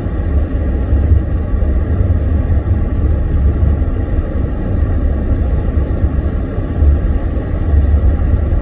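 Steady low rumble of a car driving on a snow-covered road, heard from inside the cabin: road and engine noise.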